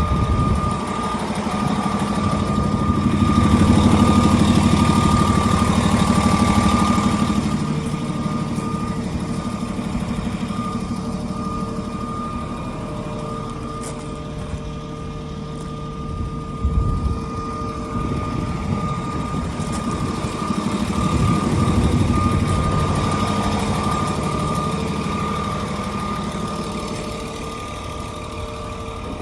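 A Terex TA400 articulated dump truck's six-cylinder diesel engine running, swelling louder twice, early on and again about two-thirds through, as it works harder, with a steady high-pitched whine throughout.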